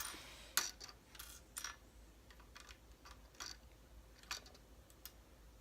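Plastic Lego bricks clicking and tapping as they are handled and fitted together, in a string of irregular sharp clicks, the loudest right at the start and about half a second in.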